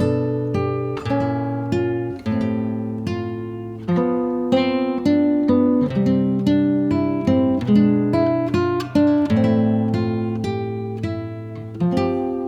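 Acoustic guitar music: plucked and strummed notes with a steady beat, each note ringing out and fading.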